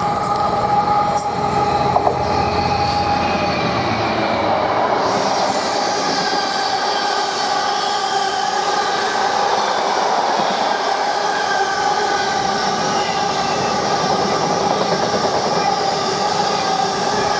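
A freight train passing at speed. A low locomotive rumble fades over the first few seconds, leaving the wagons rolling by with a steady rushing noise and a high ringing squeal from the wheels on the rails.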